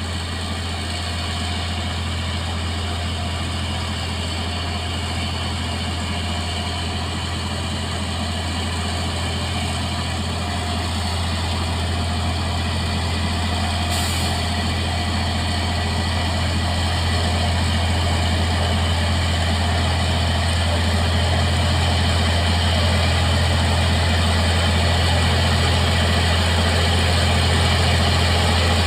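Heavy diesel engine running steadily with a deep hum that grows slowly louder, with one short click about halfway through.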